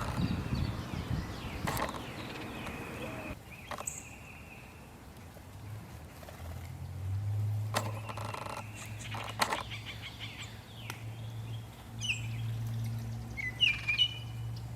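Outdoor birds chirping and calling, with a burst of short calls near the end, over a steady low hum and a few sharp clicks.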